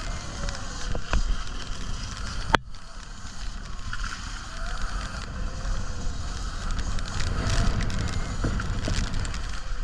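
Wind buffeting a bike-mounted action camera's microphone during an off-road motorbike ride through mud, with a steady low rumble and scattered knocks from the bumps. There is one sharp, loud knock about two and a half seconds in.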